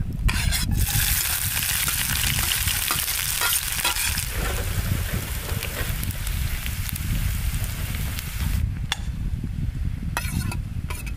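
Food sizzling in hot oil in a cooking pan: a loud, dense hiss that eases off a little partway through and stops about 9 seconds in. Near the end come sharp separate clicks, like a utensil stirring against the pan.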